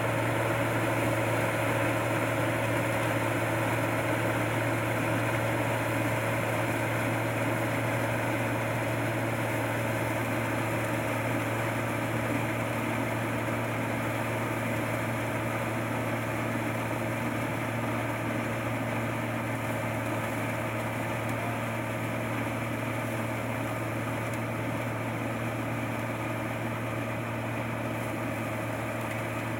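Combine harvester engine running steadily at a constant speed, a low even hum that fades slightly over the stretch.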